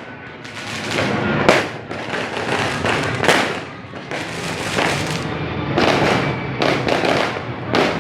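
New Year's fireworks and firecrackers going off, with continuous crackling broken by repeated sharp bangs every second or two.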